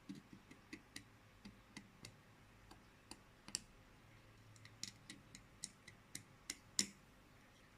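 Multimeter probe tip tapping and sliding across the pins of a circuit board: a string of faint, sharp, irregular clicks, loudest a little past three seconds in and near the end. No continuity beep sounds.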